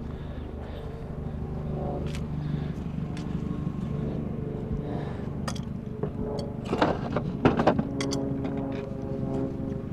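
A vehicle engine idling with a steady hum, and a quick run of clattering knocks a little past the middle.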